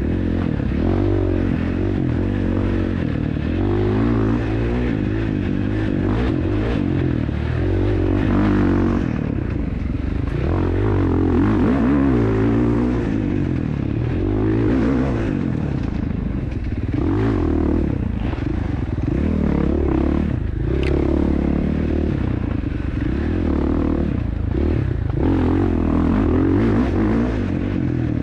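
Dirt bike engine being ridden hard, revving up and falling back again and again as the throttle is opened and closed every couple of seconds.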